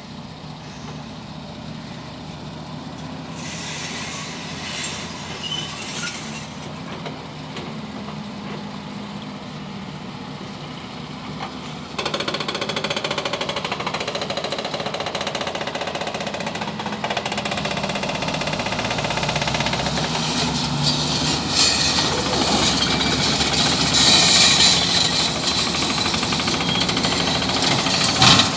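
Bulldozer's diesel engine running under work, a steady low drone that gets suddenly louder about twelve seconds in, with rising clatter and rattling in the second half.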